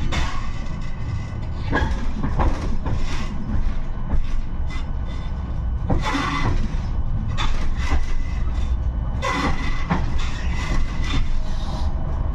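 A 71-628-02 tram running along the track: a steady low rumble with irregular clattering knocks from the wheels over the rails, a few louder than the rest (about two, six and nine and a half seconds in).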